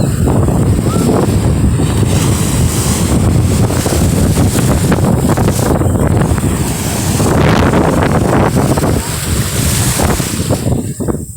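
Wind buffeting the microphone hard, over the steady rush of sea water.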